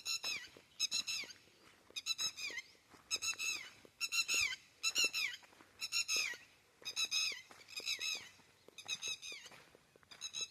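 An animal giving high, squeaky calls, each one falling in pitch, repeated about once a second, with faint clicks in between.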